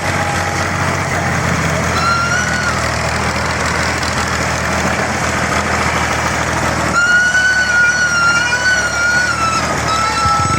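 Tractor diesel engine running steadily. A high, slightly wavering whine sounds over it briefly about two seconds in, and again for the last few seconds.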